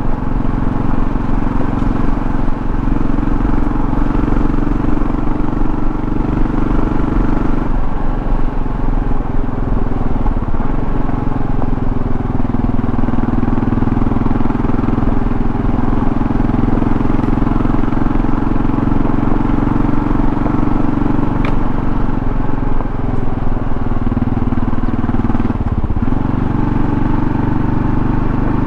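2024 Kawasaki KLR650's single-cylinder engine running steadily under way, with road noise. The engine note shifts briefly about eight seconds in and again near the end.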